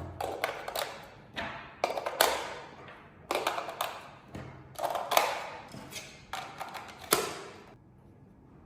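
A series of sharp plastic clicks and knocks from handling a bait boat's remote control and switches, about a dozen irregular clicks over seven seconds, each with a short ringing tail, stopping near the end.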